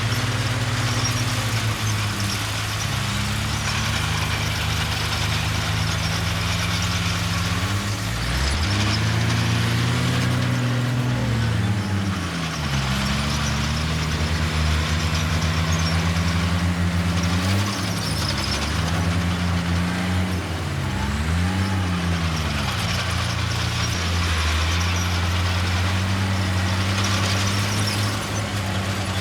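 Heavy diesel engine of earthmoving machinery working, its pitch rising and falling several times as the throttle is opened and eased off.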